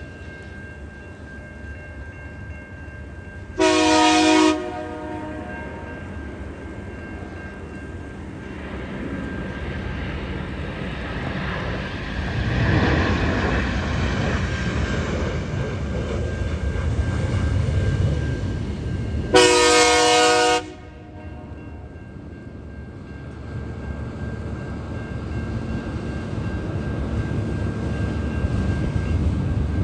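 Diesel freight locomotive sounding its horn in two short chord blasts, the first about four seconds in and the second, slightly longer, about twenty seconds in. Between the blasts the rumble of the train passing swells and stays loud, then builds again near the end.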